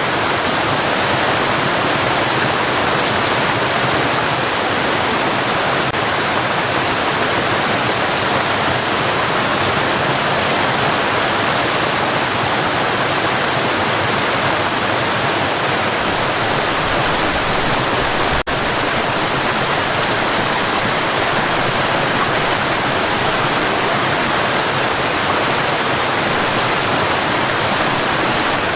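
Steady white noise: an even, unbroken hiss, with a split-second dropout about two-thirds of the way in.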